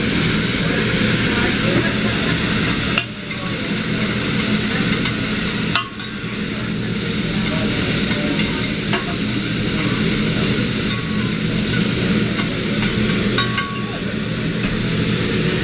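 Steady sizzling hiss with a low hum underneath, briefly dropping out about three and six seconds in.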